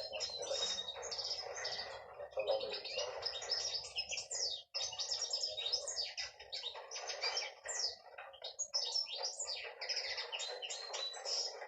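Hen canary singing: a continuous run of rapid high chirps, trills and quick pitch sweeps, with a brief break about five seconds in.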